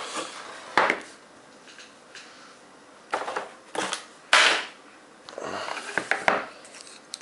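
Packaging being handled and pulled open by hand as a trading-card box is unsealed: a string of sharp snaps and clicks with rustling between them, the loudest snap about four seconds in.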